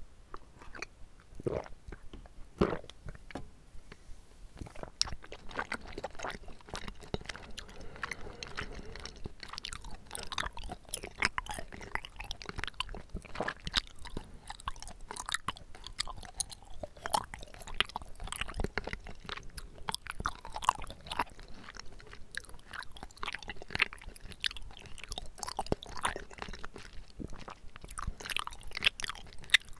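Close-up chewing of bubble tea tapioca pearls: a steady run of short wet mouth clicks and smacks, sparse at first and then nearly continuous after about five seconds.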